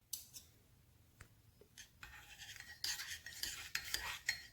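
Spreader scraping and folding body-filler glazing putty with cream hardener on a mixing board, in quick repeated strokes that start about two seconds in after a few faint clicks.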